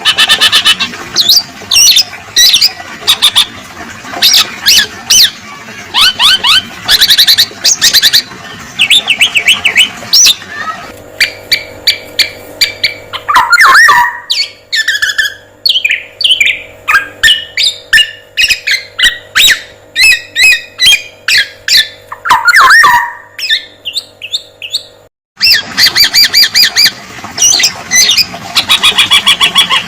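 Recorded songbird calls from a spliced bird-training track: fast chattering, trilling phrases repeat. Mid-way a different recording with a steady background hum cuts in, carrying two loud downward-sliding whistles. It cuts off abruptly and the chatter returns.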